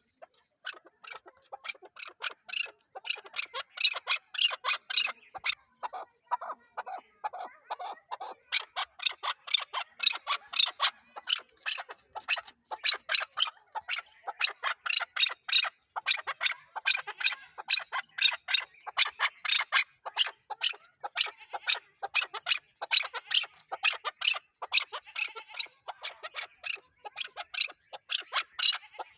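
Chukar partridge calling: a long, unbroken run of rapid repeated short notes, several a second.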